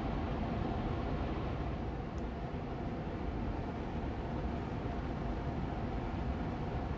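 Air purifier fan running steadily on medium speed: an even, airy hum, heaviest in the low end.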